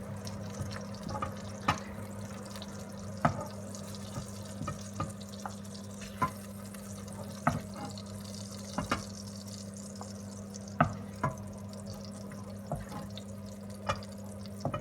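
Hot oil in a frying pan popping and spitting after frying hotdogs: sharp, irregular pops every second or two over a faint sizzle. A steady low hum runs underneath.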